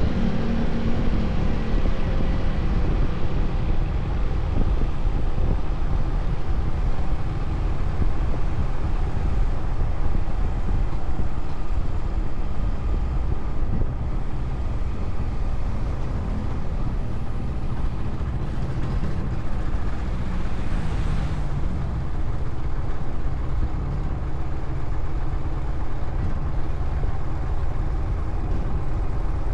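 Motorcycle riding along a road: steady engine and road noise with no letup.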